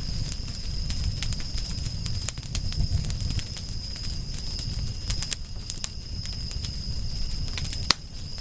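Wood fire burning, with frequent sharp crackles and pops of the burning wood over a low rumble of the flames, and a loud snap near the end. A steady thin high tone runs underneath.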